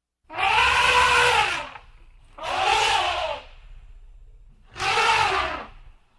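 An animal calling three times, each call a long pitched cry that rises and then falls, with a low rumble in the gaps between calls.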